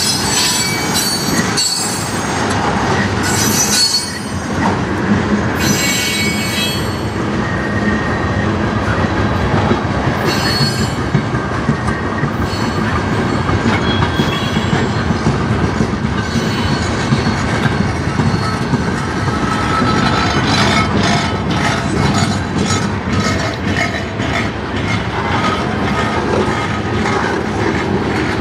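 Freight train's tank cars rolling past: a steady rumble of steel wheels on rail, with bursts of high-pitched wheel squeal through the first ten seconds or so and quick clicks of wheels over rail joints in the later part.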